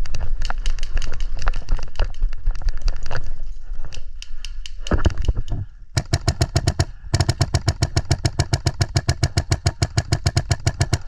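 Airsoft gun firing on full auto: a short burst about six seconds in, then after a brief pause a long, fast, even burst of about a dozen shots a second. Before that, scattered single clicks and shots.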